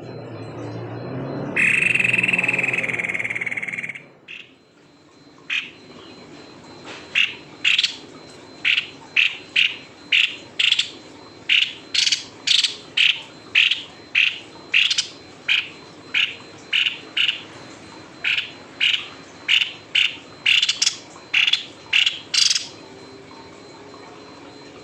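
White-bibbed babbler (tepus leher putih) calling: a long series of short, sharp notes, somewhat under two a second, starting about five seconds in and stopping near the end. Before the calls there is a loud noisy sound that cuts off about four seconds in.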